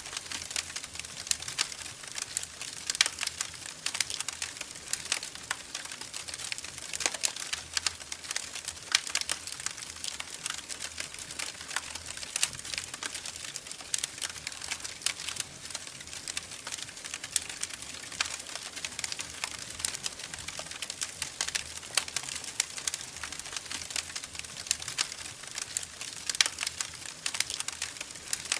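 Wood fire crackling in a fireplace: a steady hiss under frequent, irregular sharp pops and snaps.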